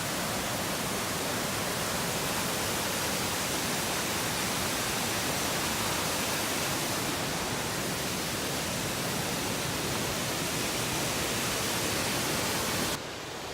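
Amicalola Falls waterfall rushing: a steady, even noise of falling water. Just before the end it drops abruptly to a slightly quieter, duller rush.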